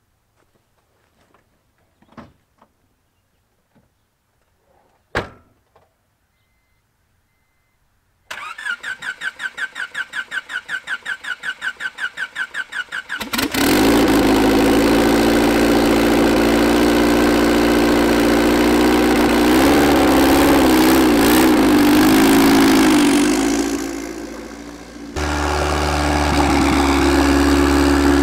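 A sharp click, then the starter of a turbocharged Honda D16 four-cylinder cranks with an even pulsing of about five beats a second for some five seconds before the engine catches and runs loudly. Near the end the sound dips and changes to a deeper, steady running.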